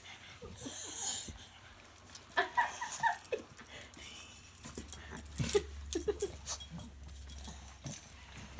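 A puppy breathing noisily and sniffing, with a few short high squeaks and scattered small clicks.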